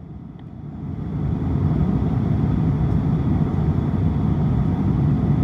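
Steady low rumble of engine and airflow noise inside the cabin of an Airbus A350-900 on its approach to land. It grows louder about a second in.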